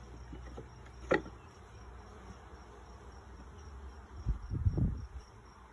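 Honey bees buzzing steadily around an open hive. A sharp knock comes about a second in, and a cluster of low thumps, the loudest sounds here, comes past the middle.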